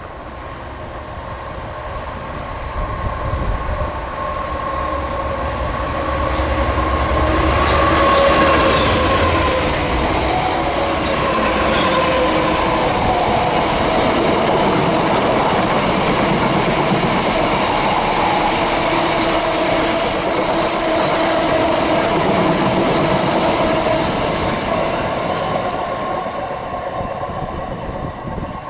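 GBRf Class 66 diesel freight locomotive, with its two-stroke V12 engine, passing with a train of hopper wagons. The engine note grows as it approaches and drops in pitch as it goes by about eight seconds in. The wagon wheels then run steadily on the rails, with a few brief high squeaks around twenty seconds in, before fading as the train moves away.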